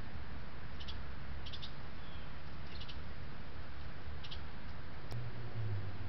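Short, high bird chip notes in twos and threes about once a second, over a steady low rumble and hiss, with a single sharp click about five seconds in.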